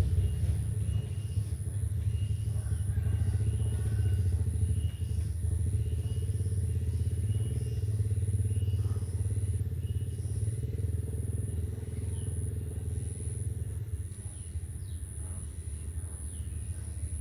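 Steady low rumble, engine- or traffic-like, with a faint continuous high-pitched whine above it and a few short, faint chirps.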